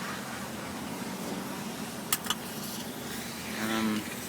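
Lorry engine idling steadily, heard from inside the cab, with two sharp clicks about two seconds in and a brief voiced sound near the end.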